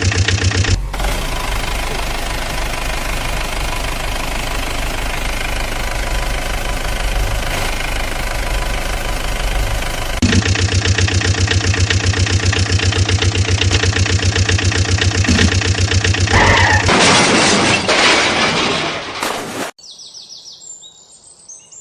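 Vehicle engine running with a fast, even pulse. Its character changes abruptly twice, as clips are cut together. Near the end it gives way to a short noisy stretch, then falls quiet with faint bird chirps.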